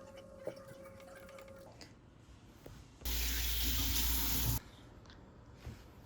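Water tap turned on full into a sink, gushing for about a second and a half, then shut off suddenly.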